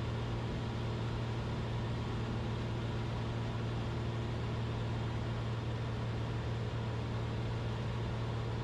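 Steady drone of a Cessna 172RG's four-cylinder Lycoming engine and propeller in flight, heard inside the cabin, with a strong low hum and an even rushing noise over it.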